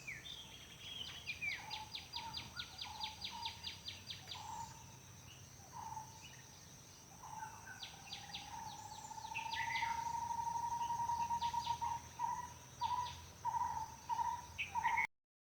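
Several garden birds calling over a steady high-pitched insect drone: a fast rattling trill near the start, assorted chirps, then a long low whistle about halfway through followed by a run of short repeated whistled notes.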